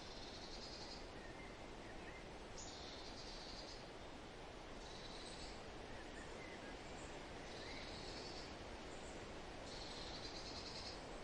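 A bird repeats a short, high, rapid trill five times, about every two and a half seconds, with a few faint short chirps between, over a steady rustling hiss of wind in the forest.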